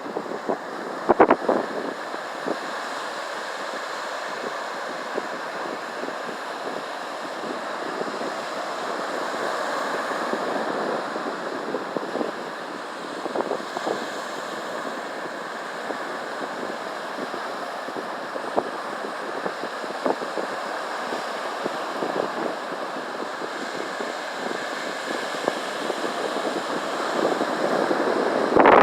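Ocean surf washing onto the shore in a steady rush that swells a little in the middle, with wind buffeting the microphone.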